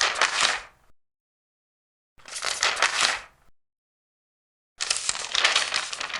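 Large paper pages being turned: three separate rustling page turns, each lasting about a second, with dead silence between them.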